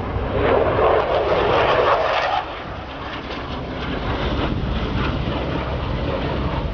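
Aircraft engine noise at an airshow, a steady rushing sound that is louder for the first two seconds or so and then eases off a little.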